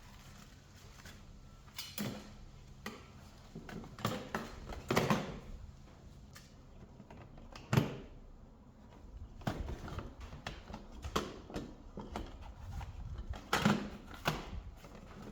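Camping gear being handled and packed into a bag or pannier: irregular knocks and clunks with rustling between, the loudest knock about eight seconds in.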